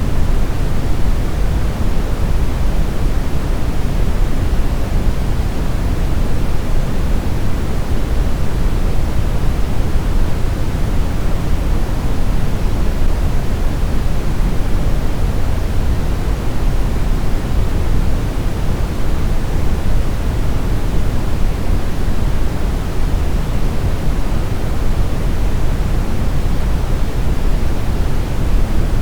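Steady brown noise: an even, deep rumbling hiss, strongest in the bass and fading toward the treble, unchanging throughout.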